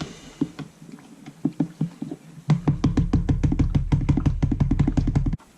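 A utensil stirring braising liquid in a container, clinking against its sides. The clinks are sparse at first, then turn fast and rhythmic, about eight a second, from about halfway, and stop abruptly near the end.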